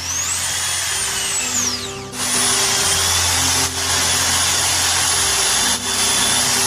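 Small electric drill running: the motor whine speeds up, drops briefly about two seconds in, then holds a steady high pitch and starts to wind down at the very end. Background music with low sustained notes plays underneath.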